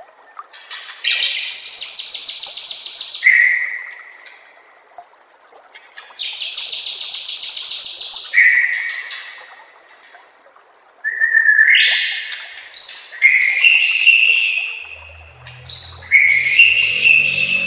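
White-rumped shama (murai batu) singing. Two long, fast rattling phrases each end in a short whistled note, followed by a run of shorter, varied whistled phrases.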